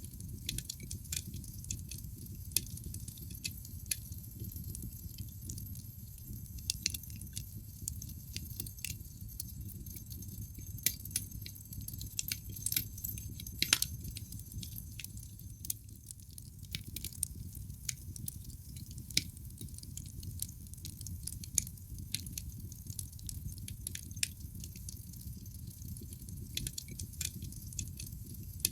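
Wood fire burning in a fireplace: a steady low rumble of flames with frequent irregular crackles and occasional louder pops from the burning logs.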